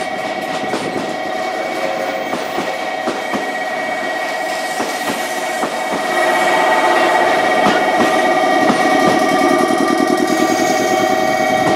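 A locomotive-hauled train, new YC1-series railcars moved as a freight consignment, running past with repeated clicks of wheels over the rails and a steady wavering whine. It gets louder about six seconds in.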